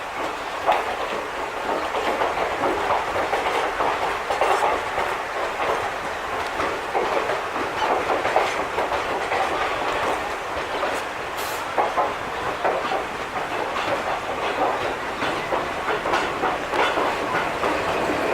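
Express train's passenger coaches rolling past slowly as it arrives at the station, their wheels clattering over rail joints in an irregular clickety-clack, with a brief high hiss about eleven seconds in.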